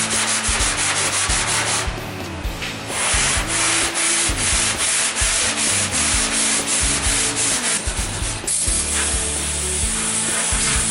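Hand sanding of car bodywork: abrasive paper rubbed back and forth over a panel in quick, even strokes, about four a second, pausing briefly about two seconds in and again near eight seconds.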